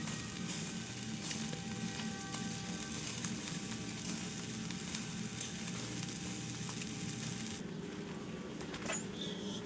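Food sizzling and crackling as it fries in a hot pan, with many small pops; the sizzle cuts off abruptly about three-quarters of the way through.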